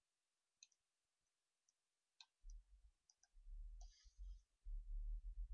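Computer mouse clicking, a scattered run of short clicks, faint. From about halfway on, a low rumble joins them.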